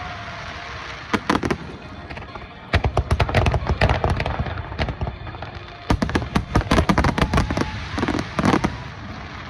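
Fireworks display: aerial shells bursting in rapid crackling clusters with short lulls between, the loudest flurry about six to seven seconds in.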